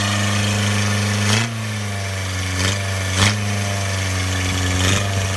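1985 Toyota Tercel's carbureted four-cylinder engine running steadily at a very high idle, just cold-started after sitting a year on old gas. A few sharp knocks sound over it.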